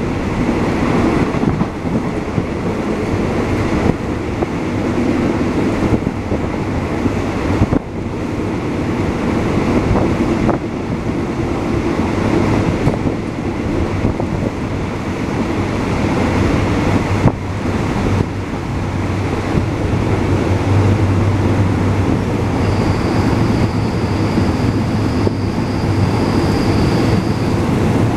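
Passenger carriage of a Thai ordinary train running along the track, seen from its window: a steady rumble and rush of wheels on rails and wind, with scattered knocks from the running gear. A thin high whine sounds for about five seconds near the end.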